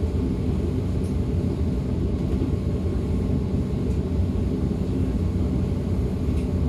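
DB Class 425 electric multiple unit running steadily, heard on board: a continuous low rumble of the train rolling along the track.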